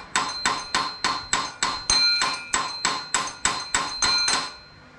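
Rapid, evenly spaced metallic clicks with a short ring, about three and a half a second, from a set screw on the go-kart's drive parts. The builder puts the noise down to that set screw.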